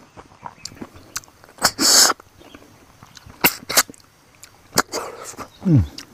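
Close-up eating sounds: a person chewing a mouthful of rice and crispy fried grasshoppers, with scattered crunching clicks and mouth smacks. A loud breathy rush comes about two seconds in, and a short low hum falling in pitch near the end.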